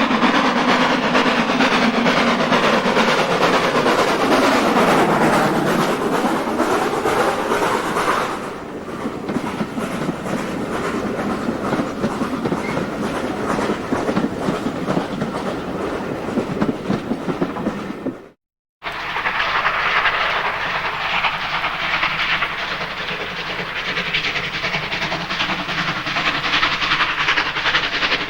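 A train running past on the line with a steady rhythmic rattle of wheels over the rails. It breaks off abruptly about 18 seconds in and starts again at once.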